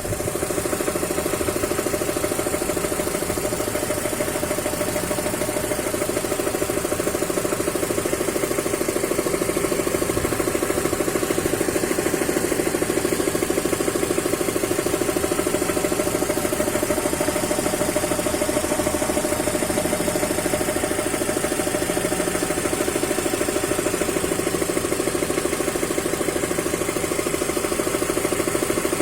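Mazda 323 BJ engine idling steadily with a fast, even knock coming from the area of the accessory drive belts.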